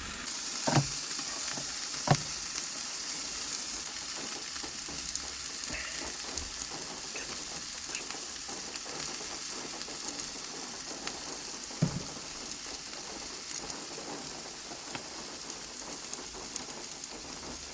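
Steak sizzling in a frying pan with flatbreads laid on top to warm, a steady frying hiss. A couple of sharp knocks come in the first two seconds and another about twelve seconds in.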